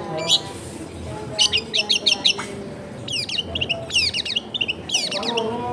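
Long-tailed shrike calling in four quick bursts of sharp, high chirps, each a rapid run of short downward-sweeping notes.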